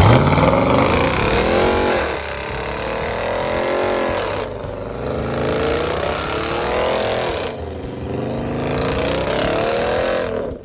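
Car engine revved hard: it comes in suddenly with a fast climb in pitch, then rises and falls about three times.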